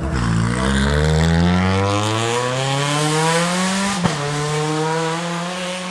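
Rally car engine accelerating hard, its note climbing for about four seconds, then a sharp crack at the upshift as the pitch drops, before it pulls on in the next gear and fades a little near the end.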